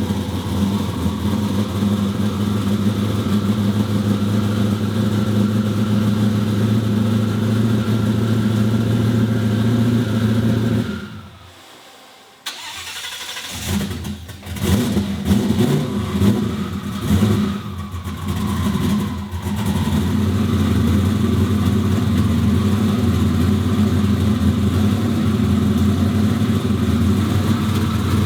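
A loud car engine idling steadily, then dying away about eleven seconds in. About a second later it starts again and runs rough, with uneven blips of throttle for several seconds, before settling back into a steady idle.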